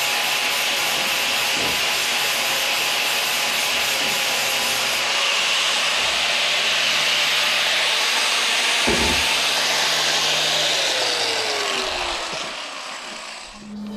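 A handheld power tool running with a steady abrasive hiss as it grinds or sands, then switched off and spinning down, its pitch falling, about two seconds before the end.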